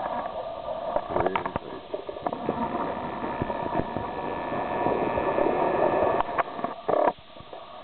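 Blizzard wind blowing and buffeting the camera microphone, with scattered crackles. It builds to a stronger gust about four to six seconds in, then drops off suddenly near the end.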